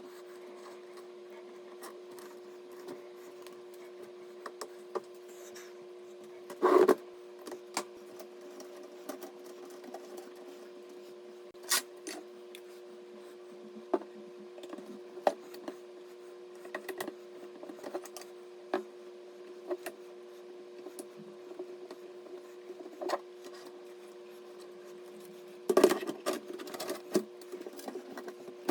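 Scattered small clicks and taps of hard parts being handled, with a louder clatter about seven seconds in and another near the end, over a steady low hum.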